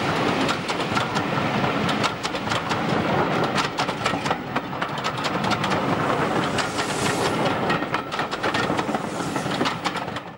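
Passenger coaches of a steam-hauled train rolling past at close range, their wheels clattering in quick clicks over the rail joints.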